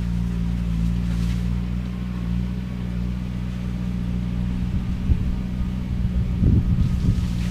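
Skid steer's diesel engine running steadily while driving a shredder head, with rough low bursts from about five seconds in as the head works through the cane.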